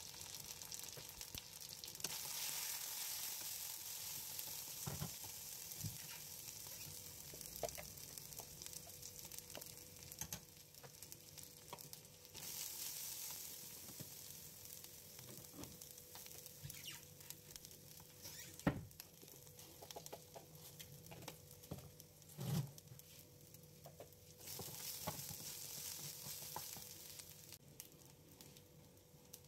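Onions and ground spices sizzling in oil in a non-stick wok while a spatula stirs them. The hiss swells and fades several times, and the spatula knocks sharply against the pan a few times, loudest about two-thirds of the way through.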